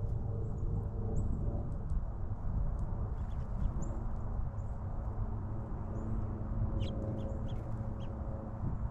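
Small backyard birds giving short, high chirps and calls, scattered and busier near the end, over a steady low rumble with a faint hum.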